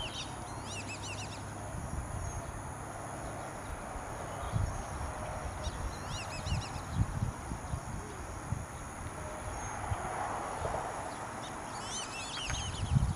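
Small birds chirping in short clusters of quick, arching high notes, in the first second and a half, again about six seconds in, and near the end, over a steady outdoor hiss. A few low thumps, the loudest about seven seconds in and near the end.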